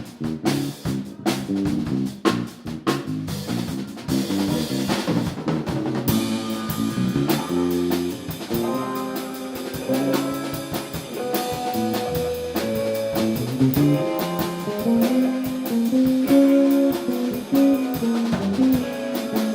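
A live band playing an instrumental passage: drum kit and bass groove, with a guitar playing melodic lines that come in about six seconds in.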